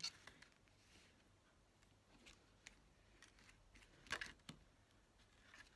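Near silence, broken by faint small clicks and taps as tiny rhinestones are handled and pressed onto a paper card, with a slightly louder pair of taps about four seconds in.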